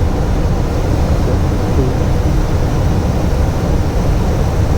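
Steady cockpit noise of an airliner on approach: rushing air and engine noise, with the landing gear down and the flaps partly extended.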